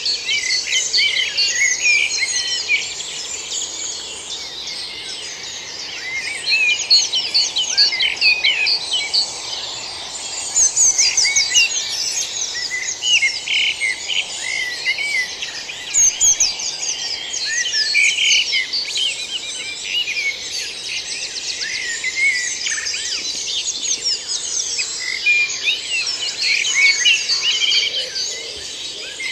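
Woodland dawn chorus in spring: many birds singing at once, dense overlapping songs and chirps.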